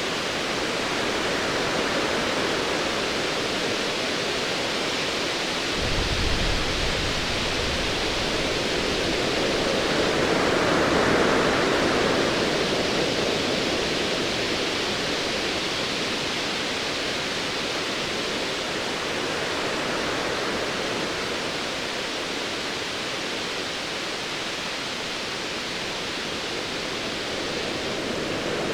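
Ocean waves surging with a steady hiss, a swell building and falling back about ten seconds in. Distant thunder rumbles low for a few seconds, starting suddenly about six seconds in.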